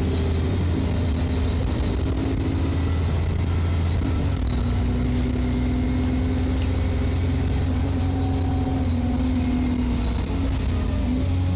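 Alexander Dennis Enviro400 double-decker bus's diesel engine running loud under way, a steady deep drone, with the engine note dropping about four seconds in and then climbing again.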